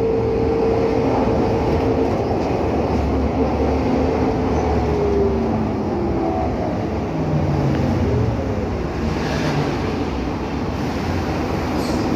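Scania K310UA articulated low-floor bus driving, heard from inside: steady engine and road rumble with whining tones that glide up and down in pitch as it changes speed.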